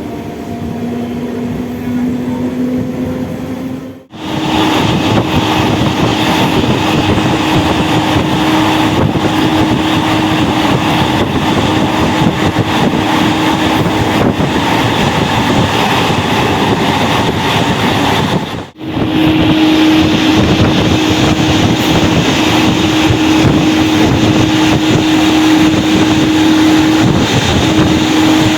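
MEMU electric train running at speed, heard from on board: a loud, steady rush of running and wind noise with a steady low hum through it. It is broken twice by a sudden brief dropout.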